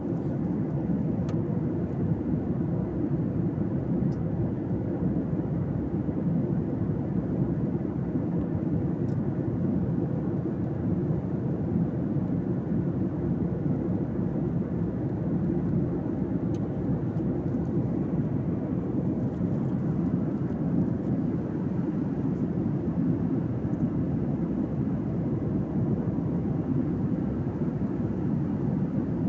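Steady low rumble of an airliner's cabin in flight, the engines and rushing air heard from inside the cabin, with a few faint ticks.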